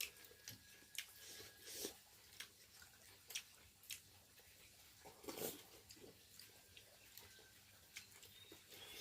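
Near silence with faint, scattered clicks and light knocks at irregular intervals, the most noticeable about two seconds in and again past the middle.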